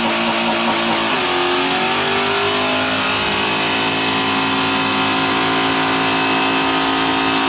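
Car engine held at high revs in a brake-stand burnout, its driven tyres spinning against the pavement under the held brakes. The pitch climbs a little about a second in, then holds steady and loud.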